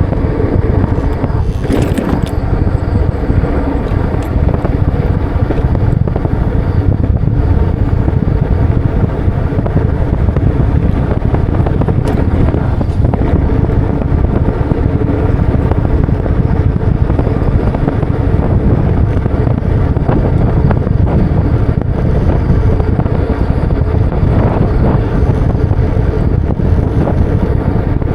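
Wind buffeting the microphone of a moving bike: a loud, steady rumble with a faint hum running through it, and a brief sharp sound about two seconds in.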